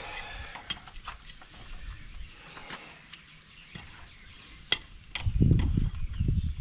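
Light metal clinks and small knocks of parts and tools being handled on a tractor engine, with one sharp click a little past halfway. A low rumbling noise comes in for the last second and a half.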